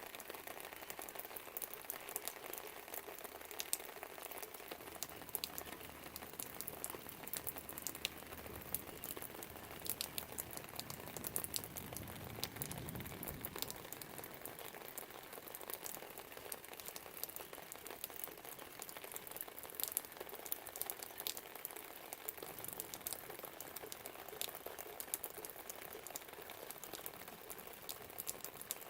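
Steady rain with a constant hiss and many sharp drip ticks as drops hit surfaces. A brief low rumble swells and fades about twelve seconds in.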